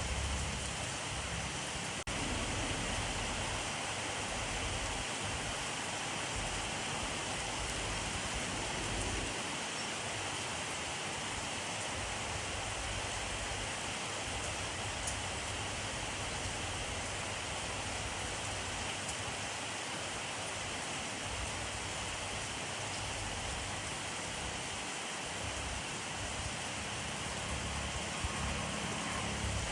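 Steady rainfall: an even, unbroken hiss of rain with no pauses.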